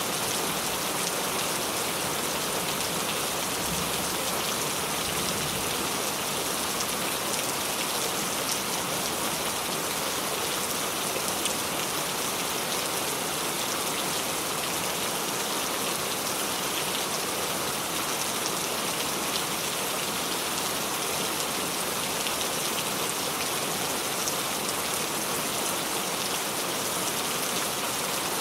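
Steady rain falling, an even hiss with many fine drops pattering on a surface, the level unchanging throughout.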